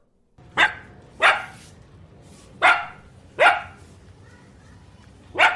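A dog barking: five short, sharp barks at uneven intervals, each dropping in pitch, the last one near the end.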